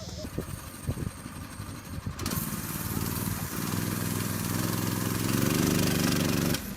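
Minibike's small engine running low with a few knocks, then from about two seconds in revving up, getting louder and climbing in pitch, and cutting off suddenly near the end.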